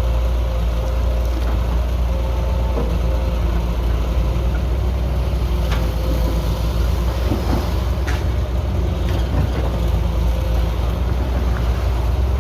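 Heavy construction machine's diesel engine running steadily with a deep hum, with a few brief knocks along the way.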